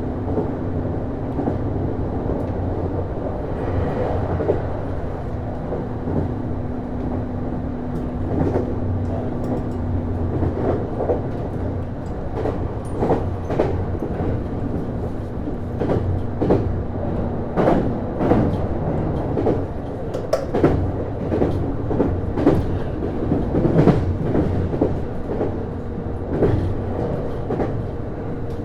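Interior running sound of a JR East Series HB-E210 hybrid diesel railcar under way: steady running noise with sharp clicks of the wheels over rail joints, which come thicker in the second half. A steady drive hum stops about two-thirds of the way through, and a fainter, higher tone is heard near the end.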